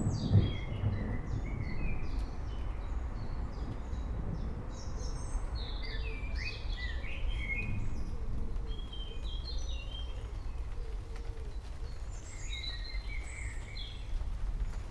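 Storm ambience: many birds chirping in short, quick calls over a steady low rumble, with the tail of a thunderclap dying away in the first second.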